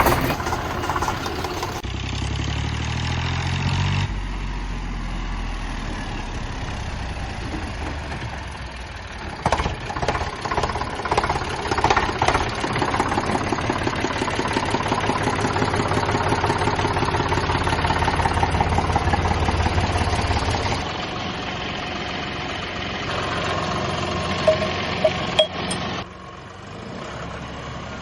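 Diesel tractor engines running under load, the sound changing abruptly every few seconds. There is a run of knocks about ten to thirteen seconds in, and a few sharp clicks near the end.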